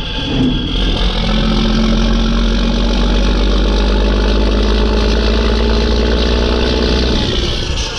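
Mack E7 inline-six turbo diesel running steadily under load, its engine note holding even, with a high turbo whistle above it. Near the end the engine note drops away and the whistle rises in pitch.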